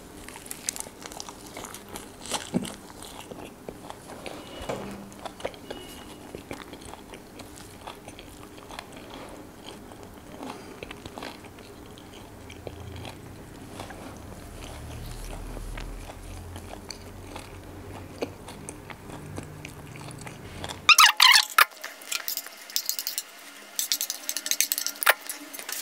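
Close-miked chewing of butter naan with chicken Afghani gravy: soft wet mouth clicks and smacks. About 21 seconds in, a spoon scrapes loudly across a plate in several squeaky strokes.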